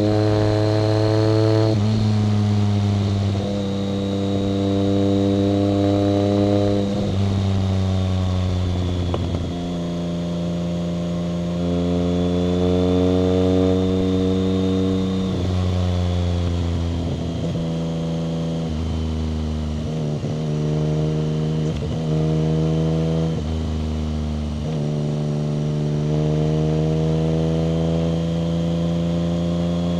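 BMW K75 motorcycle's 740 cc inline three-cylinder engine running under way, its revs climbing and then dropping abruptly again and again.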